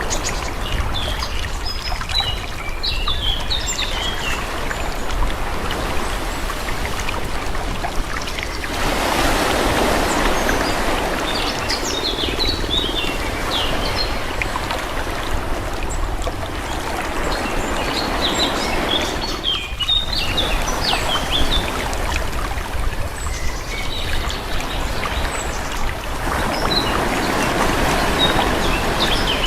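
Calm sea waves washing in and drawing back in slow, gentle swells, with small birds chirping in short bursts over them several times.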